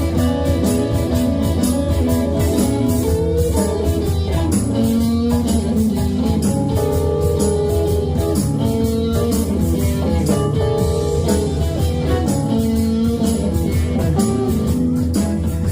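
A live band playing an instrumental passage, with guitar to the fore over bass and drums and no singing.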